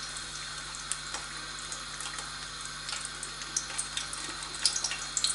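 Batter-coated green beans sizzling in hot oil in a frying pan: a steady hiss with scattered small pops and crackles, more of them near the end.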